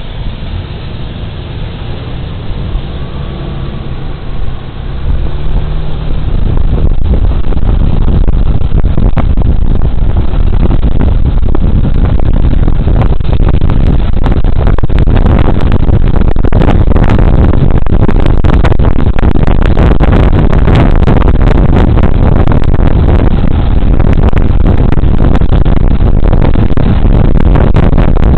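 Suzuki Burgman Street 125 scooter under way, heard through a body-worn camera's microphone. For the first few seconds its single-cylinder engine is heard rising in pitch under light wind noise. About five seconds in, a loud, crackling wind rush on the microphone swamps it.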